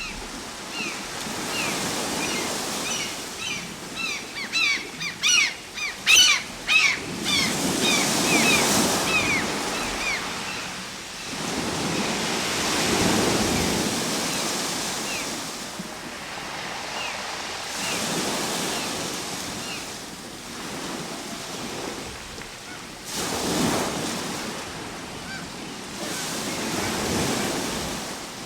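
Ocean waves breaking and washing in, swelling roughly every five seconds. Over the first several seconds a flurry of short, high bird calls sounds above the surf.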